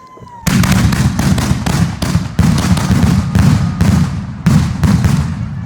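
Consumer fireworks going off: a rapid series of loud bangs, about three a second, starting suddenly about half a second in, each trailing off into a short crackle.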